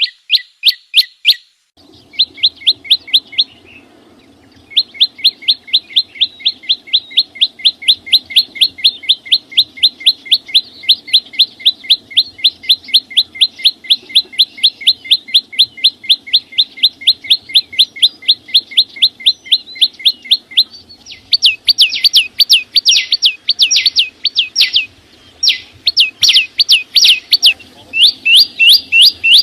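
A small songbird, the Vietnamese 'chim sâu xanh', singing long runs of rapid, sharp, high notes that each drop in pitch, about five a second. The bird pauses briefly near the start and again about a fifth of the way in. In the last third the phrases come louder in choppier groups.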